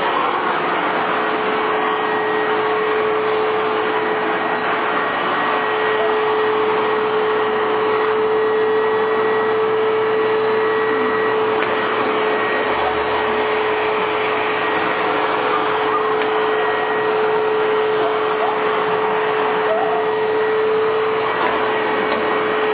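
Vacuum cleaner running steadily, with a constant hum under its rushing noise.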